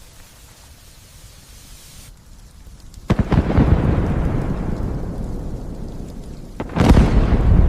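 Thunder over light, steady rain: a sudden sharp clap about three seconds in that rumbles away over a few seconds, then a second loud clap near the end that cuts off abruptly.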